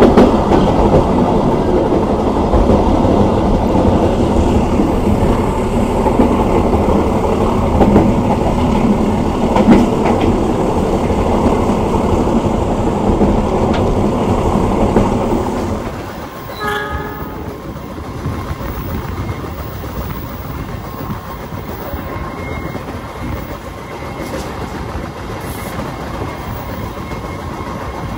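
Passenger train running at speed: loud wheel-and-rail noise and rushing air through an open window. Just past halfway it drops suddenly to a quieter running rumble, and a short horn blast sounds soon after.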